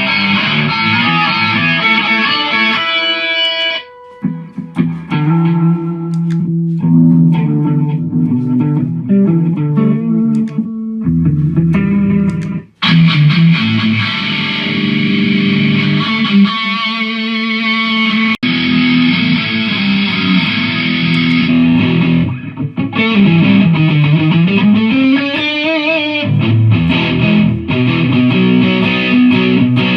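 Electric guitar played through a Mooer GE150 multi-effects pedal with a distorted tone, running riffs and lead lines with short breaks between phrases. Near the end one note is bent deeply down in pitch and back up.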